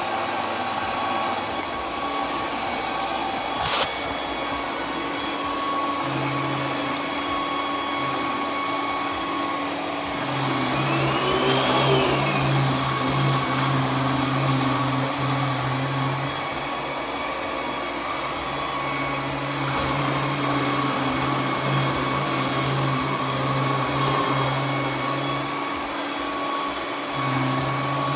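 Roborock Q10V+ robot vacuum running while it cleans the floor: a steady suction-fan whine over a rush of air, with a lower hum that cuts in and out several times. There is a single click about four seconds in, and a short rise and fall in pitch near the middle.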